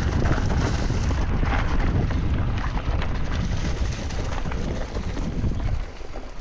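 Wind buffeting the action camera's microphone while riding a Trek Remedy 9 RSL full-suspension mountain bike down a trail, with scattered clicks and knocks from the bike over rough ground. The rumble drops away about six seconds in.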